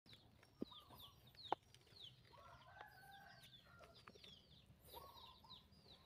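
Faint bird calls: many short, falling high chirps, with a longer, lower call about two and a half seconds in and again near the end. Two sharp clicks in the first second and a half.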